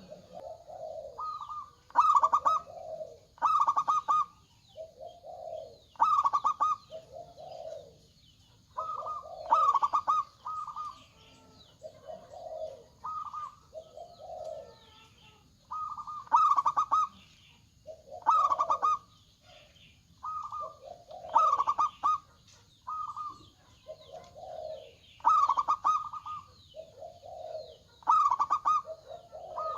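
Zebra dove (local perkutut) singing its cooing song, with phrases of lower notes and higher, clipped notes repeated every couple of seconds.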